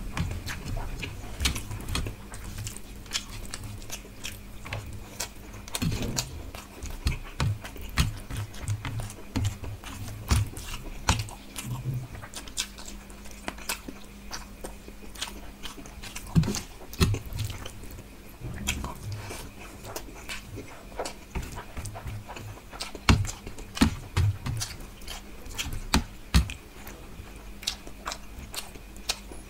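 Chewing and mouth sounds of a person eating rohu fish curry with rice by hand: irregular sharp clicks and smacks, several a second, with soft low thuds. The sharpest are in the last third.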